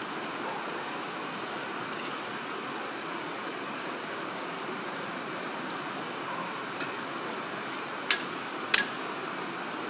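Wood campfire burning. Two sharp pops of firewood come near the end, under a second apart, with a few faint crackles earlier, over a steady rushing hiss.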